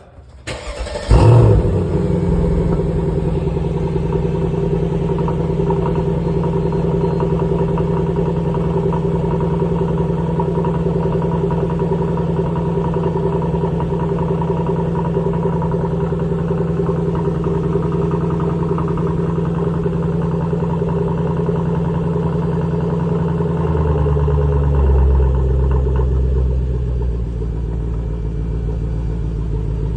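Mercedes-Benz SLK 55 AMG V8 cold start: a brief crank, then the engine catches with a loud flare about a second in. It holds a steady fast idle while cold, and about 24 seconds in the idle steps down to a lower, deeper note.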